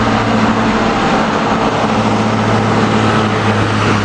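Fire engine's diesel engine running steadily with a low hum.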